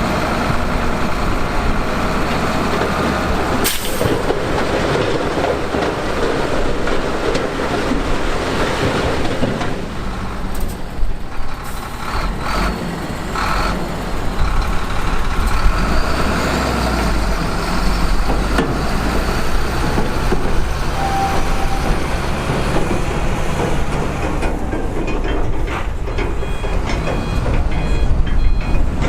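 Heavy diesel earthmoving machinery running steadily under load, with a sharp clank about four seconds in and scattered knocks of rock and metal. Near the end a reversing alarm starts beeping at an even pace.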